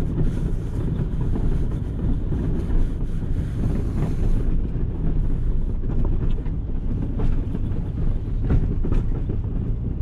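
Engine of a snow-plow vehicle running steadily under load while pushing snow, a low drone, with a few sharp knocks in the second half.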